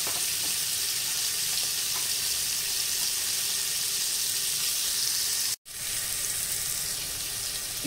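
Chicken breast pieces frying in lard in a large aluminium pot, a steady sizzle broken once by a split-second dropout about five and a half seconds in.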